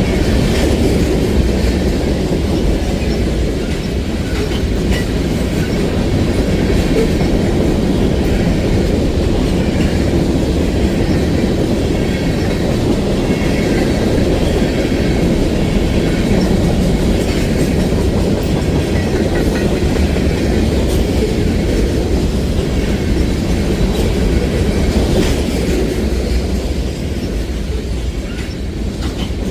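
Train cars rolling past close by: a steady, loud rumble of steel wheels on the rails, with clacking over the rail joints.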